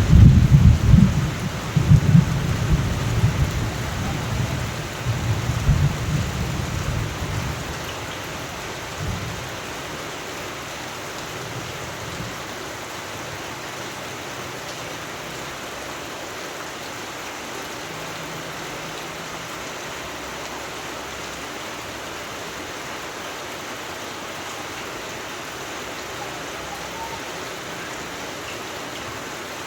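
Steady rain with a long, rolling rumble of thunder that dies away about eight seconds in, leaving only the even hiss of rainfall.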